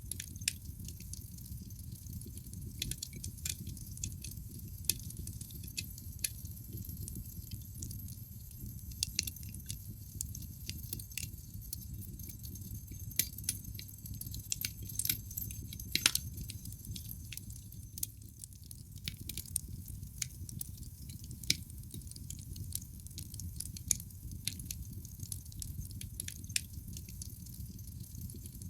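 Wood fire burning in a fireplace: logs crackling with frequent, irregular sharp pops over a low, steady rumble of the flames. One pop about halfway through is louder than the rest.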